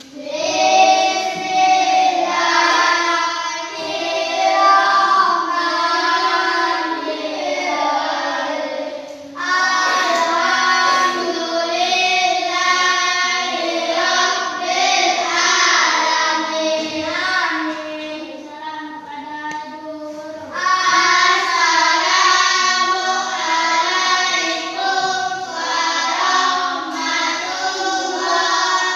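A group of children singing a song together in chorus, phrase after phrase, with brief pauses about nine seconds in and again near twenty seconds.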